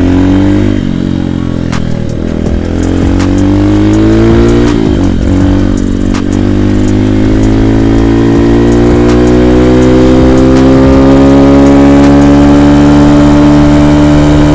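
Avantis 150 Classic pit bike's single-cylinder four-stroke engine accelerating under way. Its pitch climbs and drops back several times in the first five seconds as gears are changed, then climbs steadily and holds high.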